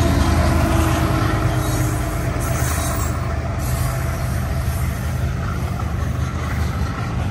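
BNSF intermodal freight train rolling past: a loud, steady rumble of wheels on rail under double-stacked container well cars, easing slightly over the few seconds.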